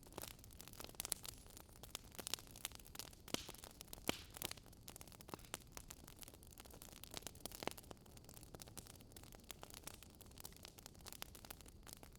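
Campfire crackling: a soft hiss of burning wood with irregular sharp pops and snaps.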